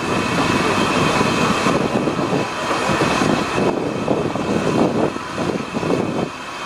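Welsh Highland Railway narrow-gauge train rolling slowly through the station, a steady rumble that eases off near the end.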